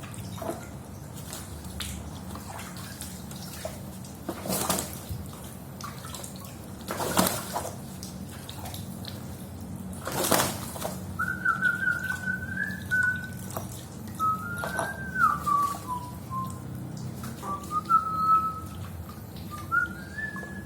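Three short bursts of water spraying, then a run of whistled notes from about 11 seconds in, held and sliding between pitches.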